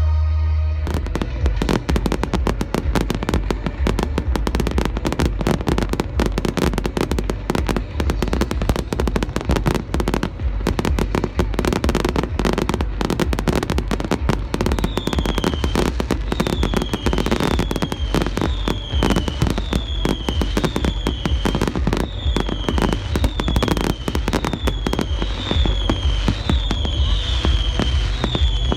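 Fireworks display: a dense, continuous rattle of bangs and crackles from exploding shells over a low rumble. From about halfway in, short falling whistles repeat roughly once a second.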